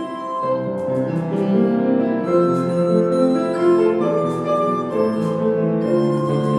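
A lullaby played on piano: a simple melody over held lower notes.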